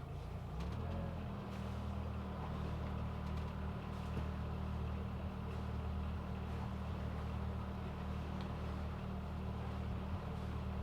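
A sailboat's auxiliary engine running steadily in neutral before casting off, its pitch rising slightly about a second in and then holding.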